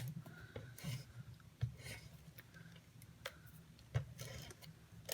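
Faint tape-runner adhesive laid down on cardstock in a few short strokes, with scattered light clicks from handling the dispenser and paper.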